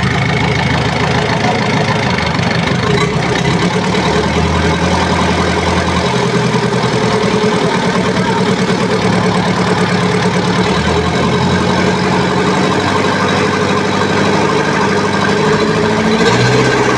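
Mazda T3500 truck engine idling steadily.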